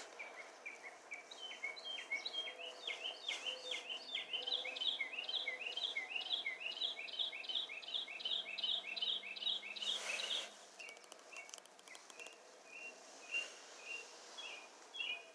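Small bird chirping: a quick, even run of repeated chirps for several seconds, then scattered single chirps, with a brief rustle about ten seconds in.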